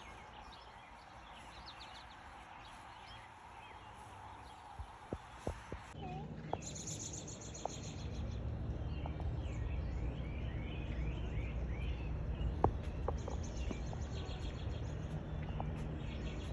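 Birds chirping and calling in short, repeated notes over a low background noise. A few sharp clicks come about five seconds in, and the background gets louder about six seconds in.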